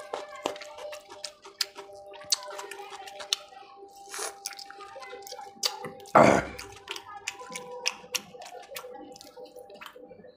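Close-up eating sounds: wet chewing and quick mouth clicks as a man eats spicy chicken liver bhuna by hand, over a faint steady hum. About six seconds in comes one short, loud, breathy burst, the loudest sound.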